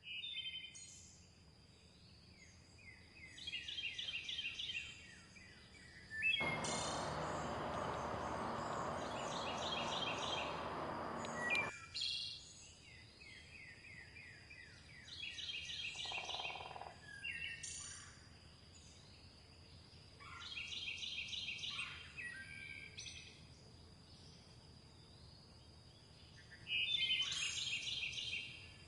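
Songbirds singing short phrases every few seconds: fast trills and quick falling series of notes, against a steady high thin tone. A loud rushing noise starts suddenly about six seconds in and cuts off about five seconds later.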